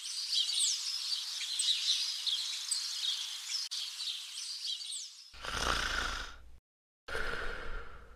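Songbirds chirping and whistling, many short calls over each other, for about five seconds. Then two short rough noises with a low rumble, about a second each, separated by a brief gap.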